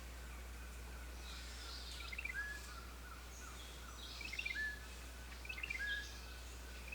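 Songbirds singing. One bird repeats a short phrase of quick descending notes ending on a lower held whistle, about every one and a half to two seconds, with fainter high calls between and a steady low hum underneath.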